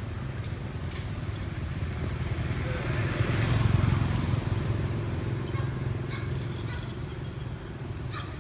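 A motor vehicle passing by, its engine rumble growing louder to a peak about three and a half seconds in, then fading away.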